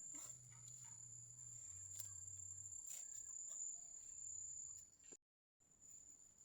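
Faint, steady high-pitched insect trill, like a cricket, with a few soft clicks; the sound drops out completely for an instant about five seconds in.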